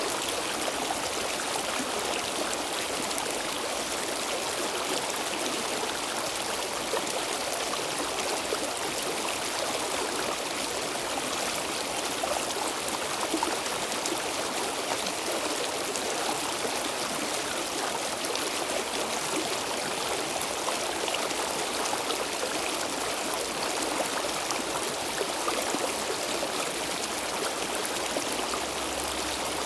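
Stream water flowing steadily over rocks, a continuous even rush with fine gurgling and splashing.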